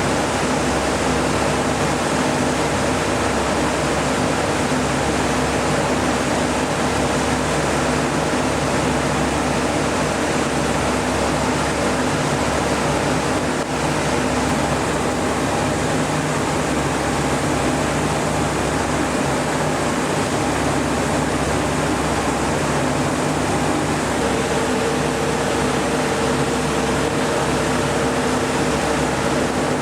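Steady engine drone with a constant rushing noise, heard from aboard a moving tour vehicle; a low hum grows a little stronger near the end.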